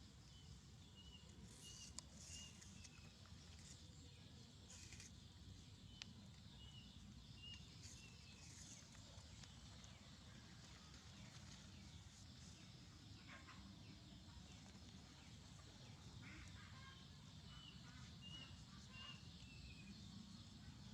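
Near silence: faint outdoor ambience with a small bird's short high chirps, repeated in a few runs of several notes.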